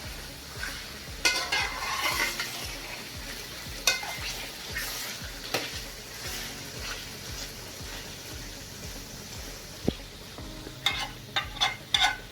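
Chicken pieces and onions frying in oil in a pot, sizzling steadily while a spoon stirs and scrapes through them. Near the end, a quick run of sharp knocks of the spoon against the pot.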